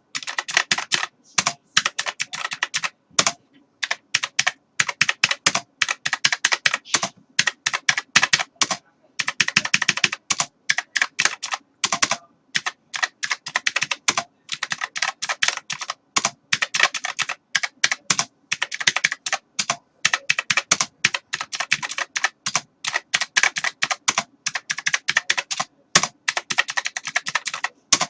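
Computer keyboard being typed on: rapid runs of key clicks in bursts, with short pauses between them.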